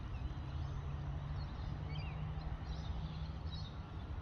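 A few short, faint bird chirps over a steady low rumble of outdoor background noise.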